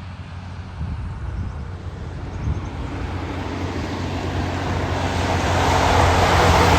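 A heavy truck approaching on a wet road, growing steadily louder. Its low engine drone is joined by a rising hiss of tyres on the wet surface, loudest near the end.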